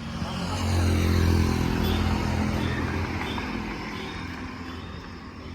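A motor vehicle's engine humming, swelling to its loudest about a second in and then fading away.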